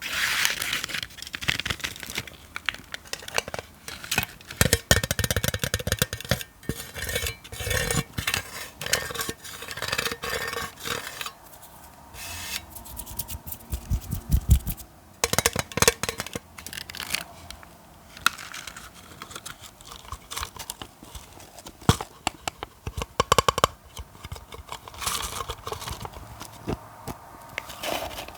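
ASMR tapping and scratching on objects, close to the microphone: long runs of quick taps and clicks mixed with scratchy scraping, with short pauses between runs.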